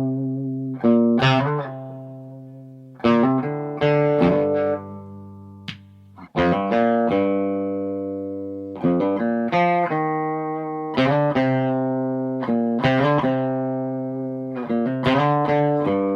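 Gibson Custom SG electric guitar playing a series of strummed chords. Each chord is left to ring and fade over a second or more before the next.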